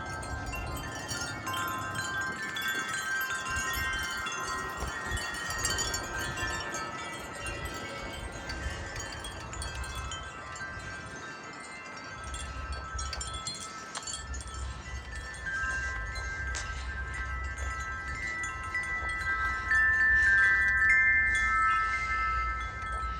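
Several wind chimes ringing steadily in gusty wind, their long tones overlapping and layered, with a low rumble of wind underneath. The ringing swells to its loudest near the end.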